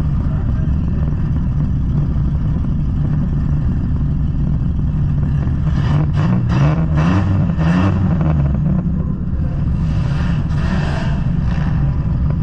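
Car engine idling, heard from inside the stripped-out car, with a few revs up and down about six to eight seconds in.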